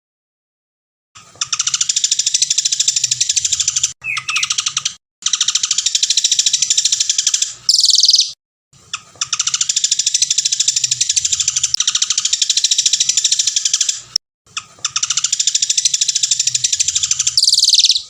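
Songbird's long, rapid trilling song phrases from a bird-song training (masteran) recording, looped in segments that start and stop abruptly. A louder falling whistle comes about eight seconds in and again at the very end.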